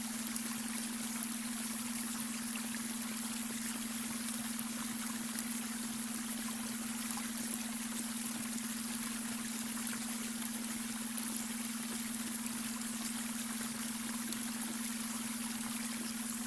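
Babbling brook: water running and trickling over stones, even and unbroken, under a steady low hum, the beta brainwave tone mixed into the water sound.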